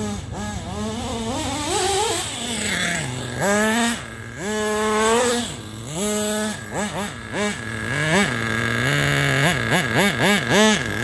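Thunder Tiger .21 nitro RC engine, freshly re-pinched, running and being revved up and down in repeated throttle blips, the blips coming quicker near the end.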